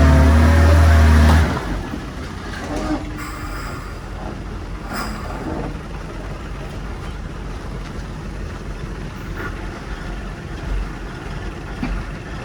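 Heavy diesel engine of the earthmoving machinery running loud and low, dropping off suddenly about a second and a half in to a quieter, steady engine drone with a few faint knocks.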